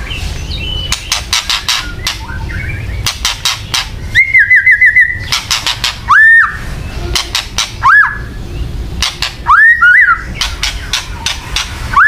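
White-rumped shama (murai batu) giving kretekan calls: bursts of dry, rapid clicking rattles alternating with short whistles that sweep upward. A quick run of five whistled notes comes about four seconds in, then single rising whistles every couple of seconds. These are the agitated calls used to provoke other shamas into fighting mood.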